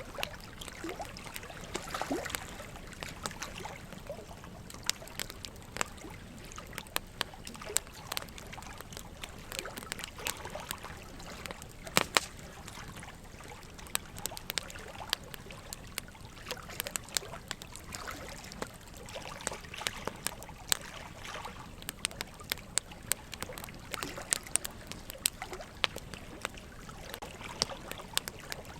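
Burning logs crackling, with irregular sharp pops throughout and one louder pop about twelve seconds in, over a steady trickle of running water.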